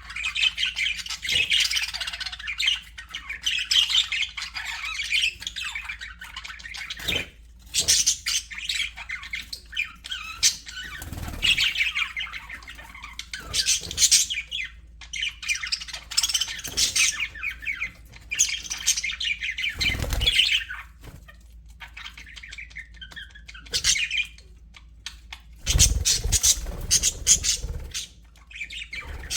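Pet budgerigars chattering and warbling in bursts of chirps and squawks, with short pauses between phrases. A few low thumps come about a third of the way in, midway and near the end.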